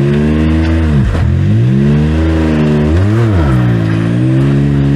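Side-by-side UTV engine revving up and down under throttle on a rocky trail climb. The revs rise and fall repeatedly, with sharp drops about a second in and near three seconds followed by quick rises.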